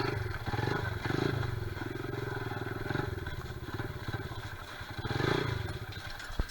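Honda XR70R pit bike's small single-cylinder four-stroke engine running, with the throttle blipped up and down several times; it dies down near the end.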